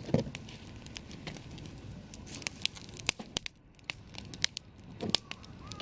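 Wood campfire crackling: irregular sharp pops and snaps over a low hiss of burning, with one stronger pop just after the start.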